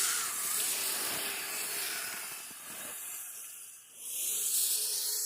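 Kyosho Blizzard radio-controlled tracked snow vehicle driving through snow: a steady hiss of the tracks working the snow over a faint, wavering electric-motor whine. The sound dips briefly near four seconds in, then picks back up.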